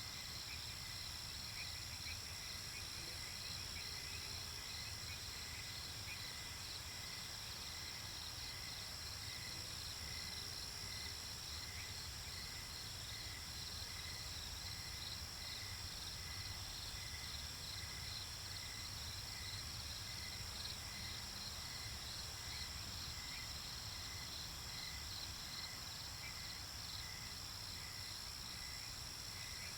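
Night chorus of crickets and other insects: a steady high trill with evenly repeating chirps that carry on without a break.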